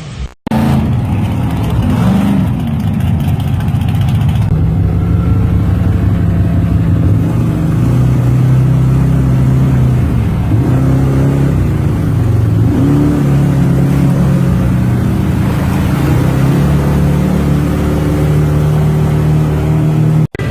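Off-road vehicle engine running loud and steady, its pitch rising and falling as it revs. There is a brief cut about half a second in.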